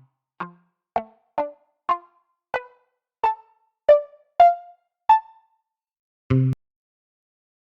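A ReFX Nexus synthesizer preset auditioned with short single notes, about one every half second or so. Each note dies away quickly, and the pitch steps upward and then moves around. Near the end a single lower, fuller note sounds briefly.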